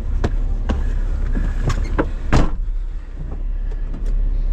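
A motor vehicle's engine running with a steady low rumble, with a series of sharp clicks and knocks over it, the loudest a little over two seconds in.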